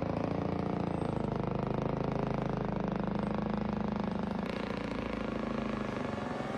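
Tractor-trailer's engine running steadily, a continuous low hum.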